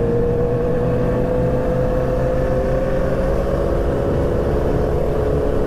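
Motorcycle engine running at a steady cruise, its pitch holding nearly constant and dipping slightly about three and a half seconds in, with steady wind rumble on the rider's microphone.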